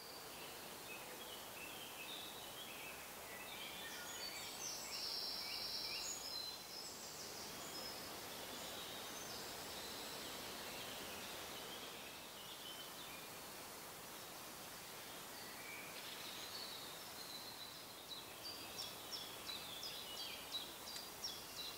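Birds calling and singing over a faint steady hiss, with a held high note about five seconds in and a quick run of short repeated calls, a few a second, near the end.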